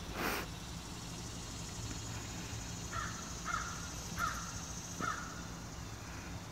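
A bird gives four short, harsh calls, evenly spaced, starting about three seconds in, over a steady low background hum. A brief burst of noise comes at the very start.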